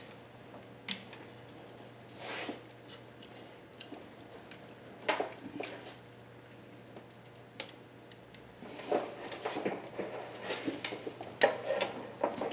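Irregular metal clinks and scrapes from hand tools and small engine parts being handled, loudest just before the end, over a steady low hum.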